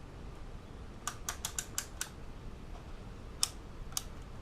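Rotary range dial of a multimeter clicking through its detents as it is turned to the 20K ohms range: a quick run of about six clicks, then two more single clicks.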